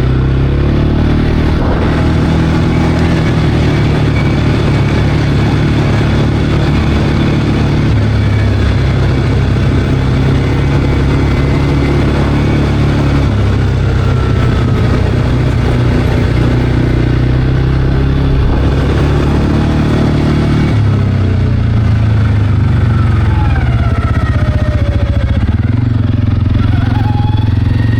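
CFMOTO Cforce 520L ATV's single-cylinder engine running steadily under way, its pitch shifting a few times as the throttle changes.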